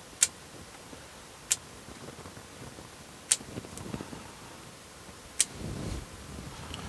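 Bonsai scissors snipping conifer shoots: four crisp snips, a second or two apart. A soft low handling noise comes near the end.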